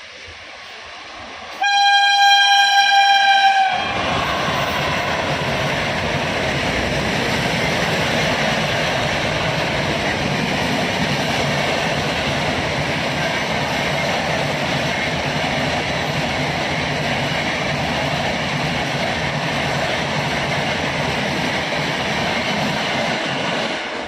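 An Indian Railways electric locomotive sounds its horn in one steady blast about two seconds long, then the express train passes close by at speed, a long, even rush of wheels and coaches lasting about twenty seconds.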